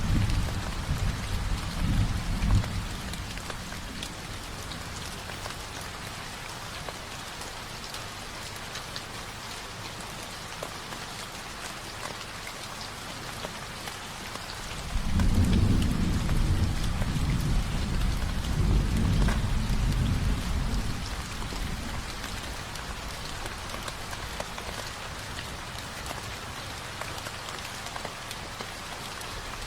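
Steady rain falling, with a low rumble of thunder at the start and a longer, louder roll of thunder about halfway through that lasts several seconds.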